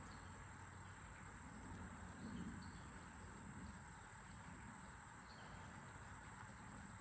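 Faint outdoor ambience: a steady high-pitched insect drone over a soft, even hiss of moving creek water.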